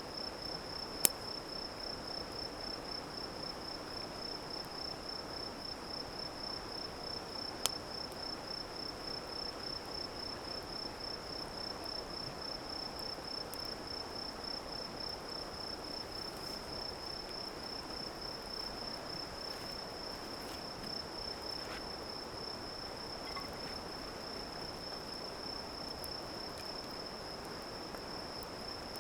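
A cricket-like insect trilling steadily in a high, even pulsing chirr, over a faint hiss. Two sharp pops stand out, one about a second in and a quieter one near eight seconds: wood popping in the campfire.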